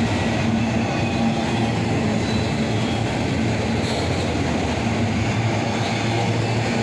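Cars of a mixed intermodal freight train rolling past, a steady rumble of steel wheels on the rails.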